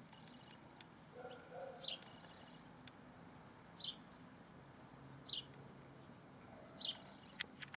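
A bird repeating a short, high, falling chirp four times, about every second and a half, with a lower call from another bird about a second in and a few sharp ticks near the end.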